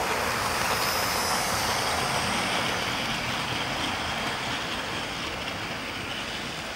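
Model train running on the layout's track: a steady whirring rumble of wheels and motor that fades a little toward the end.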